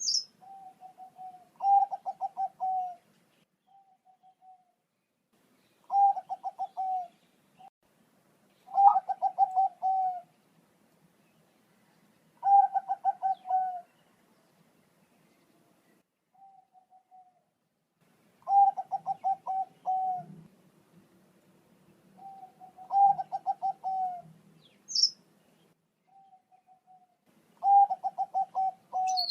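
Zebra dove of the Bangkok perkutut strain singing: repeated phrases of quick, pulsing coos, each about a second long, come every few seconds with soft single coos between. A brief high chirp sounds twice, near the start and near the end.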